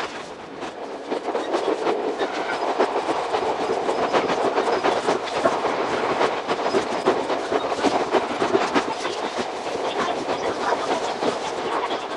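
Running noise of an Iga Railway 200 series electric train (ex-Tokyu 1000 series), its wheels clattering quickly and steadily over the rails. The recording is sped up six times, so the clatter comes as a rapid, dense run of clicks.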